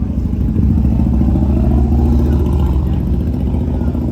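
Suzuki Hayabusa's inline-four engine running, its pitch rising about a second in and then holding steady.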